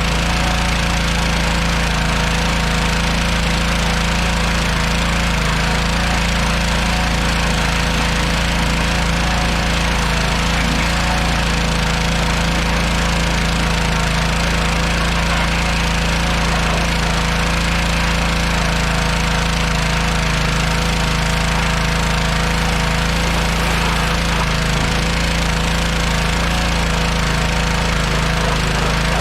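An engine running steadily at a constant speed, a loud continuous rattle with no change in pitch.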